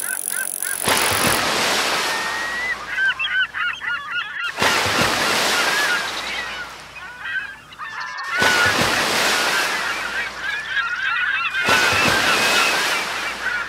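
A flock of birds calling over and over in short, goose-like honks. Beneath them an outdoor hiss cuts in and out abruptly several times.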